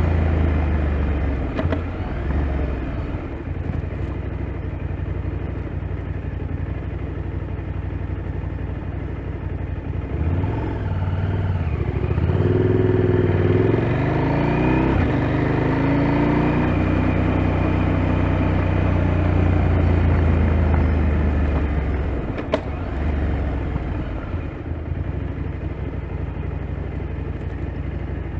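KTM 890 Adventure's parallel-twin engine running under way, revving up about ten seconds in, holding steady, then easing off a little past twenty seconds.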